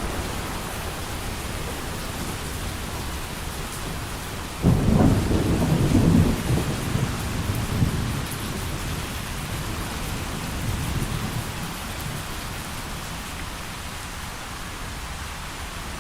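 Steady heavy rain with a thunderclap that breaks in suddenly about five seconds in, rolls on as a low rumble for several seconds, then fades back under the rain.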